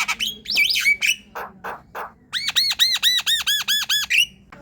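Javan myna singing: harsh squawks and raspy chatter, then, a little past halfway, a quick run of about ten identical arched whistled notes.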